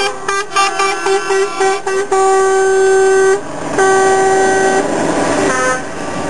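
Truck horns sounding: a quick run of short horn notes, then two long blasts of about a second each, followed by a rushing noise.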